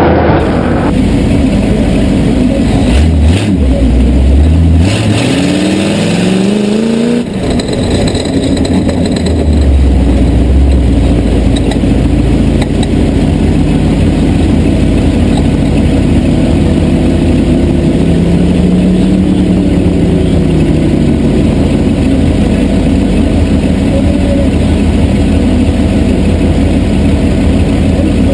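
Tough truck engine revving hard as it races over the course, its pitch climbing in repeated sweeps a few seconds in, then running steadily at high revs with another rise and fall of pitch about two-thirds of the way through.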